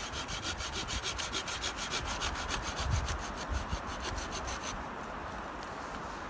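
Wood being sawn by hand in quick, even rasping strokes that stop about three-quarters of the way through.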